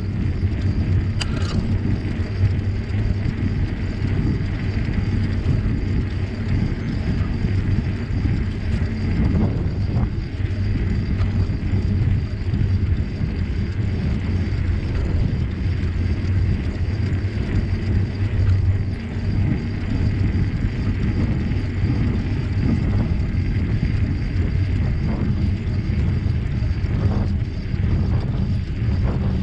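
Steady rumble of wind on the microphone and tyre noise from a bicycle being ridden.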